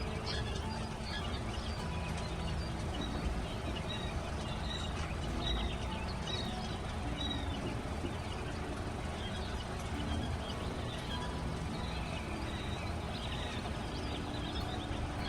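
Chicks peeping: many short, high chirps scattered throughout, over a steady low rumble.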